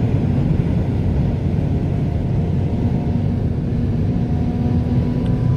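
Steady low rumble of a moving vehicle, with a faint steady engine hum.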